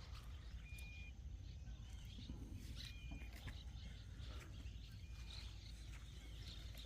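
Quiet lakeside ambience: a low wind rumble on the microphone with faint scattered bird chirps, and a short high, steady note that comes back about every two seconds.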